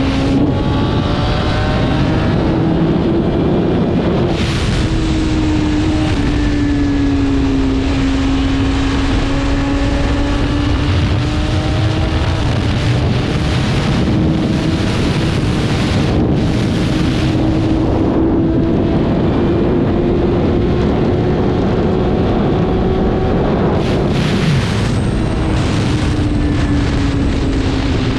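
BMW S1000RR's inline-four engine running at high revs under way, its pitch slowly rising and falling with the throttle, with wind rushing over the microphone and a few brief surges of noise.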